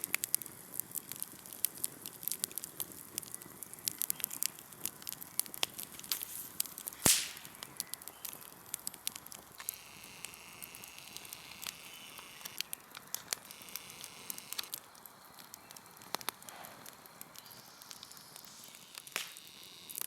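Log-cabin campfire crackling, with many small sharp pops and one louder pop about seven seconds in.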